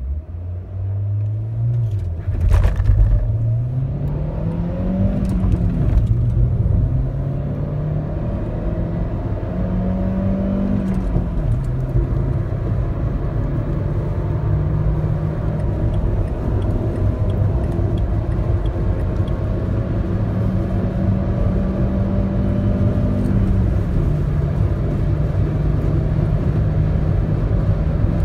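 Dacia Lodgy's 1.2 TCe turbocharged four-cylinder petrol engine, heard from inside the cabin under hard acceleration from standstill to 150 km/h. Its note climbs in pitch through each gear and drops at each upshift, about four times, with a thump about two and a half seconds in.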